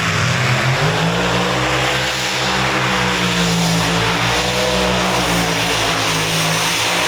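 Competition pulling tractor's engine running flat out down the track under heavy load, a dense, loud sound with a turbine-like whine. Its pitch rises over the first couple of seconds and falls again near the end.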